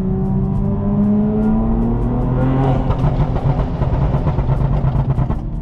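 BMW G82 M4's S58 twin-turbo straight-six with a full stainless Valvetronic Designs exhaust, accelerating hard, heard from inside the cabin. The pitch climbs over the first two and a half seconds, then the engine carries on loud and rough until it drops away at the very end.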